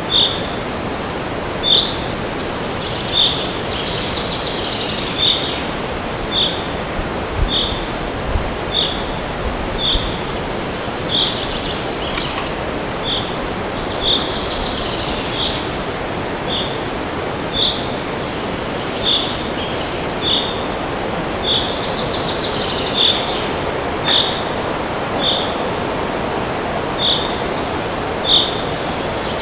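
Steady wind rushing through forest trees, with a bird repeating a short high chirp about once every second or so. Fainter warbling song from another bird comes in now and then.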